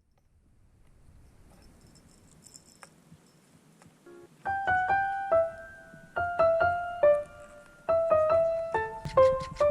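Piano music: faint room noise at first, then a simple melody of single piano notes, each struck and left to ring, starting about four and a half seconds in.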